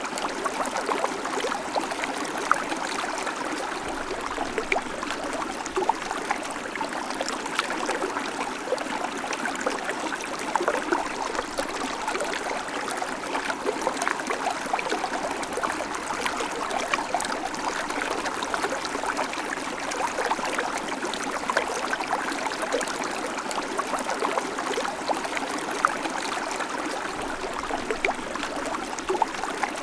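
Babbling creek: water running over stones in a steady stream, with small splashes and trickles through it.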